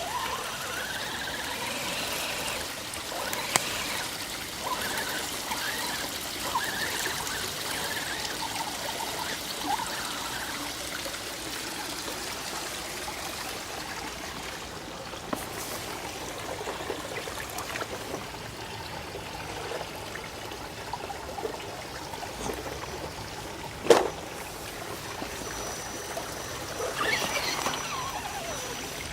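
Running water trickling and babbling steadily, with a single sharp knock about 24 seconds in.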